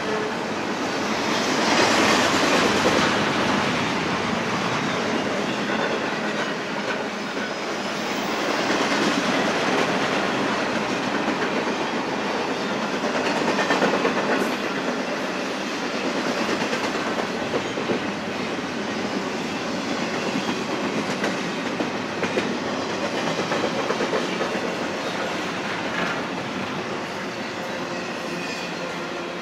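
Double-stack intermodal container well cars rolling past on the rails: a steady rolling, rattling noise of freight car wheels and couplings. It swells and eases as groups of cars go by, with occasional clicks.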